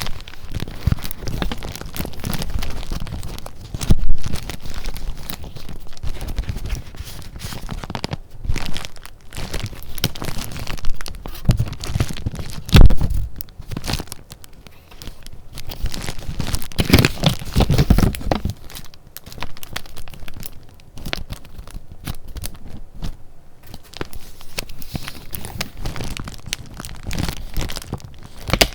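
Paper being handled, crinkling and tearing, with irregular sharp crackles and rustles throughout; it is loudest a few times, around 4, 13 and 17 seconds in.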